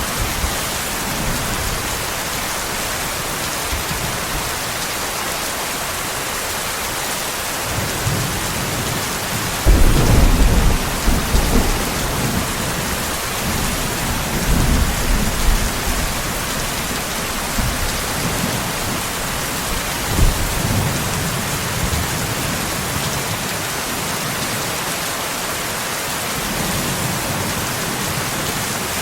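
Steady heavy rain with rolls of thunder: a sharp, loud crack-and-rumble about ten seconds in, then lower rumbles that swell and fade several times.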